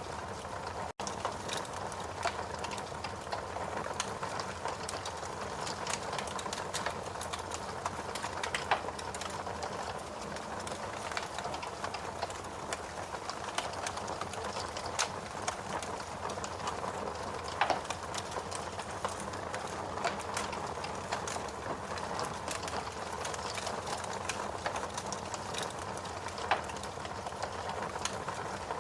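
Ambient mix of steady rain and a wood fire crackling in a fireplace, with scattered sharp pops from the burning wood. The sound drops out for an instant about a second in.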